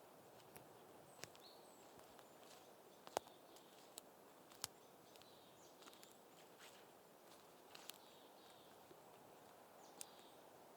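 Very faint outdoor forest ambience: a soft hiss with scattered light clicks and a few faint, distant bird chirps.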